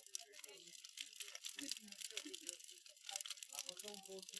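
Large wood bonfire crackling and popping in a dense irregular patter, with indistinct voices talking in the background.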